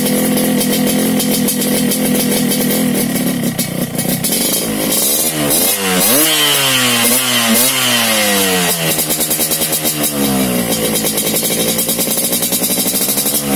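Yamaha RX-King's two-stroke single-cylinder engine breathing through an aftermarket underbelly racing exhaust: idling steadily, then revved in a run of throttle blips that rise and fall from about four seconds in, before settling back to a pulsing idle near the end.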